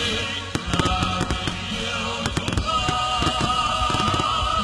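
Fireworks going off at close range: a rapid, uneven run of sharp bangs and crackles, thickest about half a second in and again past the middle. Music with steady held notes plays underneath.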